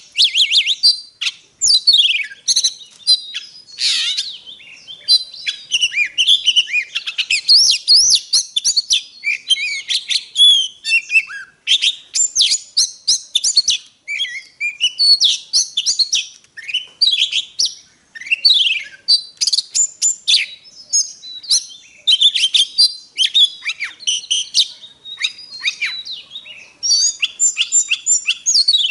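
Oriental magpie-robin singing a long, varied song of sweet whistles, chirps and quick trills, phrase after phrase with only short pauses.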